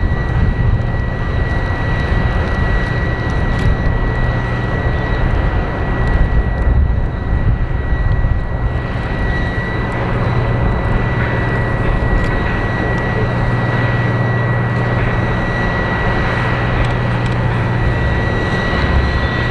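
Kawasaki T-4 jet trainer's twin turbofan engines running during engine start: a steady high whine over a deep rumble. A second, rising whine begins near the end as an engine spools up.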